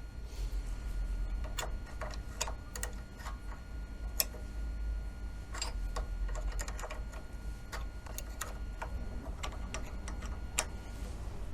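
Light metallic clicks and taps at irregular intervals from a wrench and fitting as a hydraulic line nut is threaded into an outboard motor's power trim unit, over a low steady hum.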